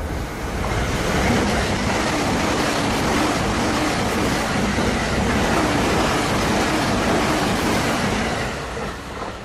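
JR East E259 series Narita Express electric train passing at about 130 km/h: a loud, steady rush of wheel and wind noise that builds in the first second and falls away near the end as the train clears.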